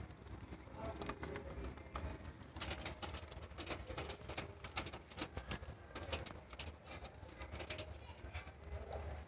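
Cockatiels in a wire cage: many small clicks and taps, as of claws and beaks on the bars, with soft bird calls.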